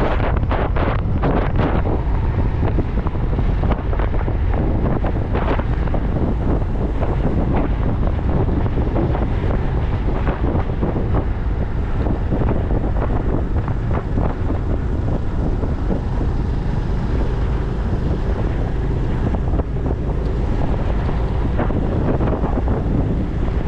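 Wind buffeting the microphone of a moving motorcycle: a steady low rumble broken by frequent short crackles.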